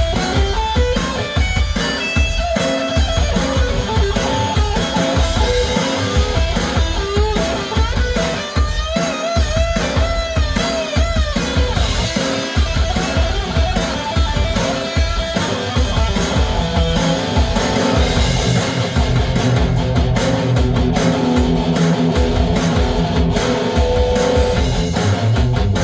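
Electric guitar playing over a drum beat, with wavering, bent notes about a third of the way through.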